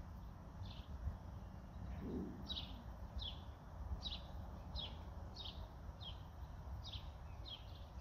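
A bird's short, high chirps, each sliding down in pitch, repeated every half second or so with a few short gaps, over a low steady rumble.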